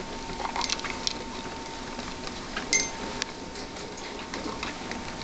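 Pet rats moving about their cage among nutshells, making scattered light clicks and rustles, with one sharper clink a little after halfway. A faint steady whine sits underneath.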